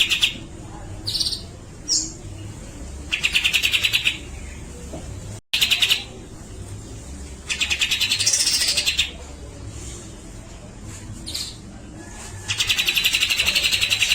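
Grey-cheeked bulbul (cucak jenggot) singing in full voice: three long, fast rattling trills, each about a second and a half, with short whistled notes between them.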